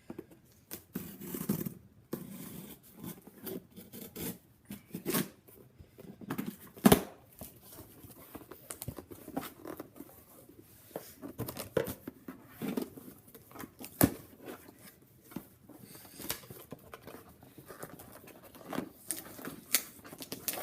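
A hard-to-open shipping package being worked open by hand: irregular tearing, scraping and crinkling of the packaging, with sharp snaps about 7 and 14 seconds in.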